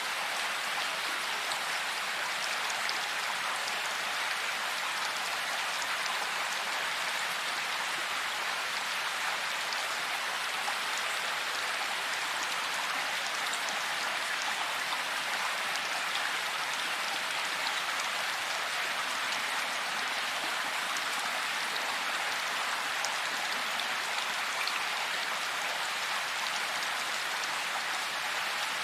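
Heavy rain falling steadily, an even hiss of countless drops with faint scattered taps, without any thunder.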